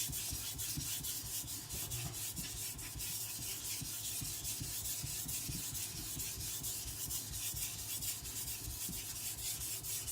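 Steel knife blade being stroked back and forth on a wet whetstone: a steady gritty scraping in quick, repeated strokes as the edge is sharpened.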